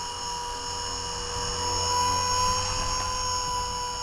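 Blade 200 SRX RC helicopter's electric motor and rotor running with a steady high whine, growing slightly louder about two seconds in.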